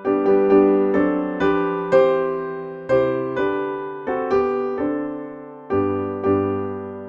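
Piano playing a slow hymn tune in struck chords, each note fading after it is played, with a low chord near the end left to ring out.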